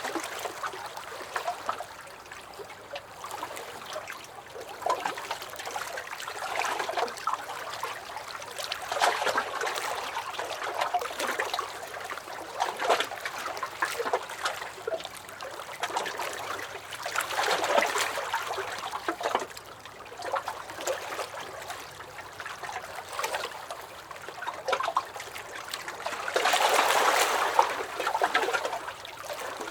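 Small lake waves lapping and splashing against a dock, in uneven swells every few seconds, with a louder surge near the end.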